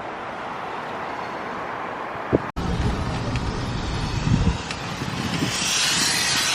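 Car running slowly while reversing into a parking space, a steady rumble of road and engine noise. About two and a half seconds in, the sound cuts abruptly to louder street noise with wind on the microphone and a hiss that swells near the end.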